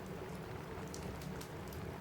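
Steady rain falling on a roof, with scattered short, sharp crackles and ticks from a wood fire in a fireplace.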